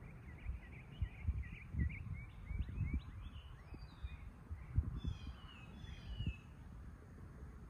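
Songbirds chirping: a quick run of chirps in the first few seconds, then higher falling whistled calls in the middle. Low gusts of wind rumble on the microphone, giving the loudest moments.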